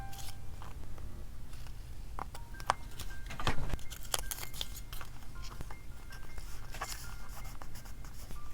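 Light, sparse plinking background music over small clicks, taps and rustles of stickers and paper being handled, with a louder rustle about three and a half seconds in.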